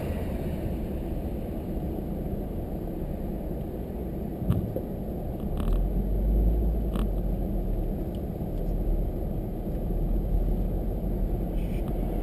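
A car driving: a steady low rumble of road and engine noise, with a few faint clicks around the middle.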